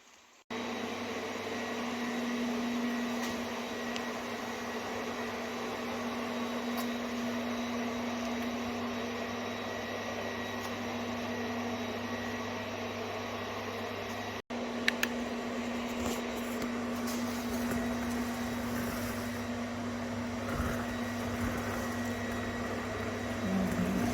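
BMW M60B40 4.0-litre V8 in an E46 idling steadily through its exhaust, an even drone with no revving. It drops out for an instant partway through.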